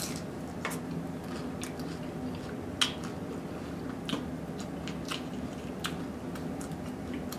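Close-miked biting and chewing of a crunchy hard-shell taco, with sharp crunches at irregular intervals, the loudest a little under three seconds in, over a steady low hum.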